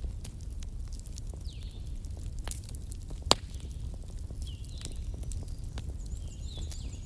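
Wood campfire burning, crackling with scattered small pops over a low steady rumble, and one sharper pop about halfway through.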